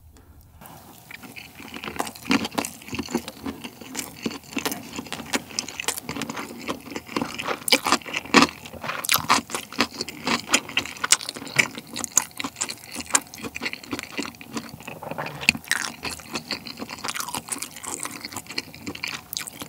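Close-miked chewing of a bite of cheese kimbap: a steady run of small mouth clicks and smacks.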